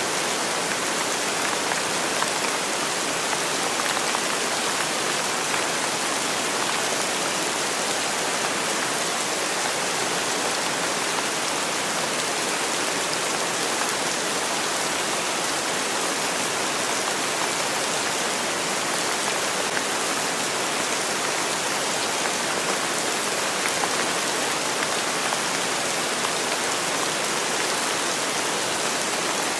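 Steady rain falling, an even hiss with the fine patter of drops hitting a surface.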